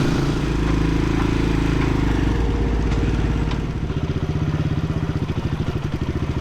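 Dirt bike engine running at steady revs, then about four seconds in dropping to low revs with a chugging beat.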